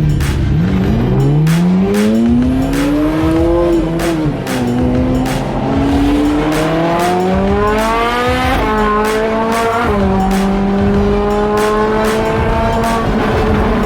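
Sports car engine accelerating hard through the gears. Its pitch climbs, drops at an upshift about four seconds in, climbs again, drops at another shift past eight seconds, then settles into a steady cruise from about ten seconds. A music track with a steady beat plays underneath.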